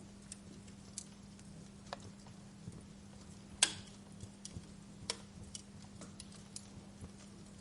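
Wood fire in a fireplace crackling, with irregular sharp pops of burning wood, the loudest a little after halfway, over a faint hiss and a steady low hum.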